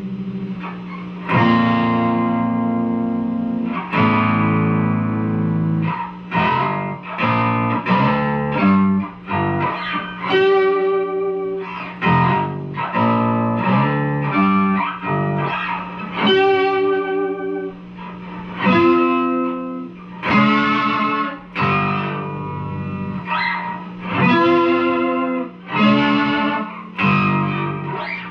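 Guitar strumming a chord progression through an effects unit, chords struck in a steady rhythm and left ringing.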